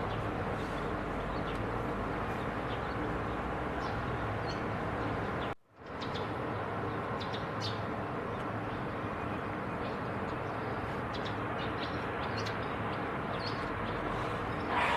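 Faint short bird chirps over a steady outdoor background rush. The sound drops out briefly about a third of the way through, then resumes.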